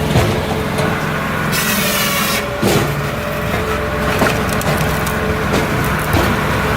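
Diesel-powered firewood processor (Multitek 1620SS, 44 hp diesel) running with a steady engine drone, with scattered knocks of wood. About one and a half seconds in comes a harsh hiss lasting just under a second.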